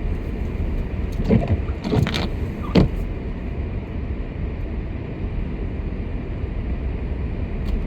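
Steady road and engine noise of a car driving slowly, heard inside the cabin. A few brief knocks stand out about one to three seconds in.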